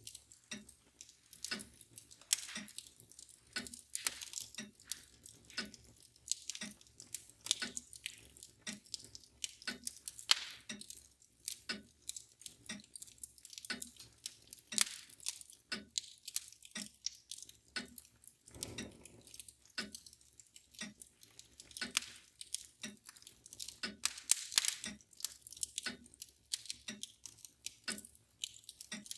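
Wood fire crackling and popping in a fireplace, with a mantel clock ticking steadily underneath; a dull low thump comes about two-thirds of the way through.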